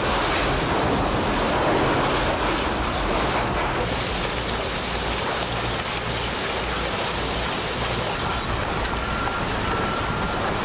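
Heavy machinery running under load: a steady, dense grinding noise over a low engine hum, with a faint high whine coming in near the end.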